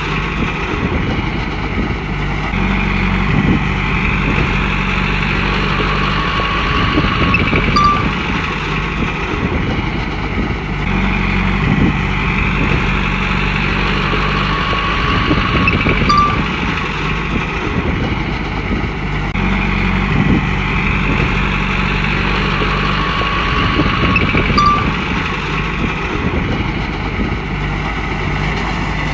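Komatsu bulldozer's diesel engine working under load. Its note rises and falls in a cycle about every eight seconds, with a brief high beep near each turn.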